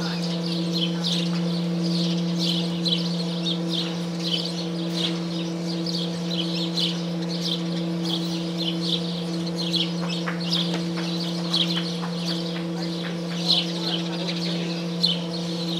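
Small birds chirping over and over in short high notes, a few times a second, over a steady electrical hum.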